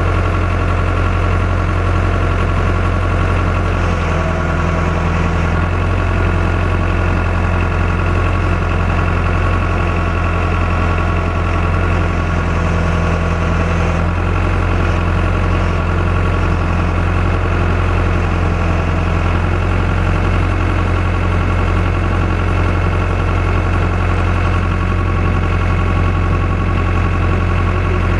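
Tractor engine running steadily at constant speed, a loud, even low hum.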